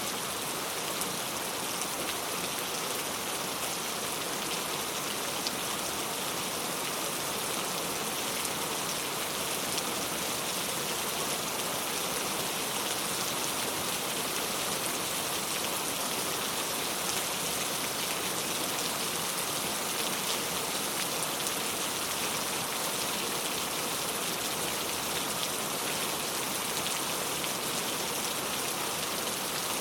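Heavy rain falling steadily, a dense even hiss with many fine drop patters.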